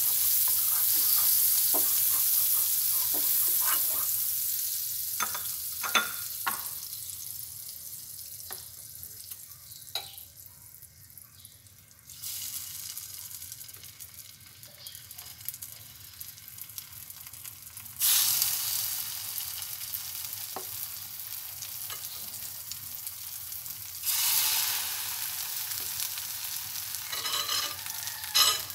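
Egg-dipped bread slices frying in melted butter in a non-stick pan: a high hissing sizzle that dies down over the first ten seconds, then flares up again about 12, 18 and 24 seconds in as each fresh slice goes into the hot fat. A few sharp clicks and knocks of a utensil against the pan come early on.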